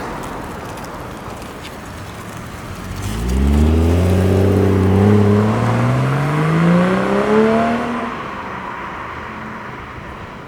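BMW M340i's turbocharged inline-six on its stock exhaust accelerating, the note starting about three seconds in and climbing steadily in pitch for about five seconds before fading away.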